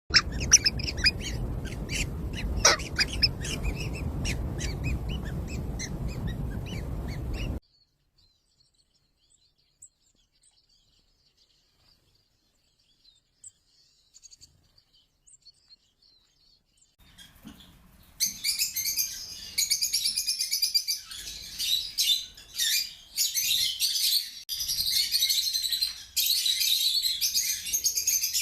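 Birds chirping, at first over a low steady background noise. The sound cuts off abruptly about seven seconds in, leaving near silence with a few faint chirps. About eighteen seconds in, a dense run of rapid, high chirps starts and continues.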